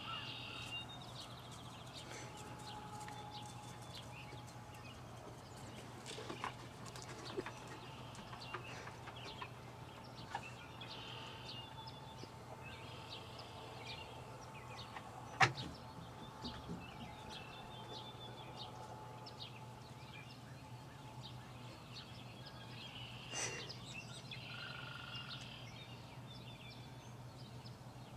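Birds calling now and then over a steady low hum, with one sharp click about halfway through.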